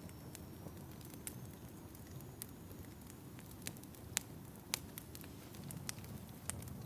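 Wood fire crackling, with a low steady rumble of flames and irregular sharp pops about once a second, the loudest about four seconds in.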